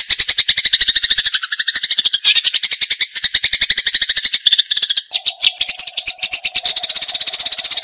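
Eurasian tree sparrow giving the fast, unbroken chatter of fighting calls, more than ten sharp chirps a second. A faint steady hum comes back about five seconds in.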